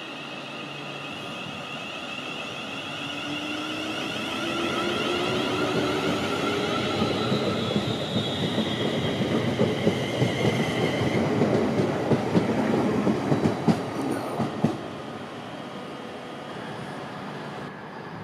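Class 350 Desiro electric multiple unit running along the platform: whining tones that slowly fall in pitch, building up as it draws close, with a run of sharp wheel clicks over the rail joints from about nine to fifteen seconds in, after which the sound drops away.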